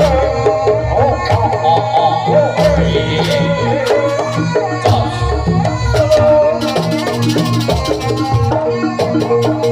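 Live Jaranan dance music from a Javanese percussion ensemble: a drum beat over steady held tones, with a wavering, ornamented melody line on top. A bright rattling hiss joins for about two seconds past the middle.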